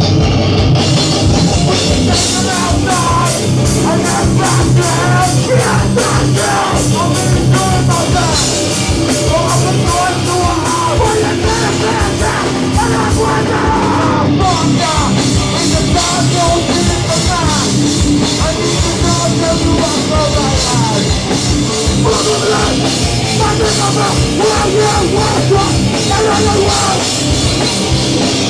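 Hardcore band playing live and loud: distorted guitars, bass and fast, dense drumming.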